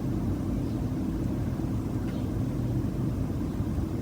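Steady low-pitched background hum with no other events.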